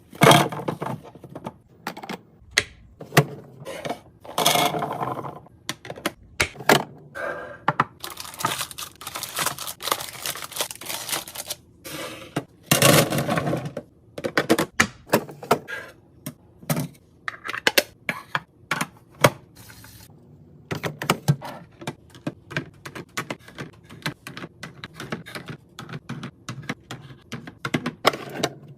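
Groceries and plastic containers being handled and set into a fridge: many sharp clicks, taps and thunks, with stretches of rustling or crinkling packaging in the middle.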